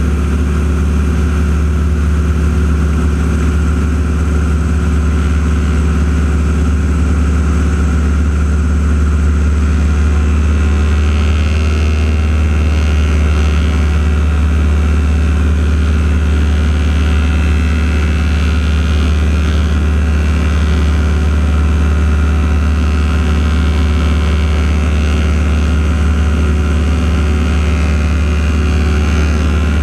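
Radial-engined North American T-6 Texans flying an aerobatic routine, their engine and propeller note rising and falling as they manoeuvre, over a steady low hum. The wavering engine tones come in about a third of the way through and continue to the end.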